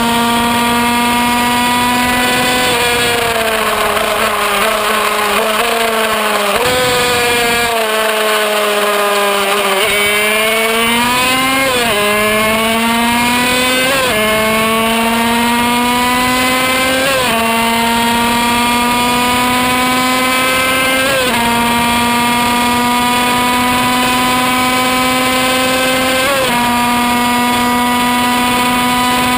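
Kreidler Van Veen 50cc two-stroke racing engine screaming at around 14,000 rpm, heard on board. From about three seconds in the pitch sags as it backs off, then from about ten seconds it climbs hard and upshifts through its six-speed gearbox, the pitch dropping sharply at each change, five times.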